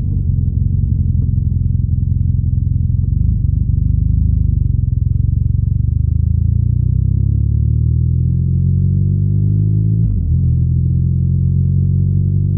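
BMW R nineT's air/oil-cooled boxer twin engine and exhaust under way, rising steadily in pitch as the bike accelerates. There is a brief break about ten seconds in, after which the engine holds a steady pitch.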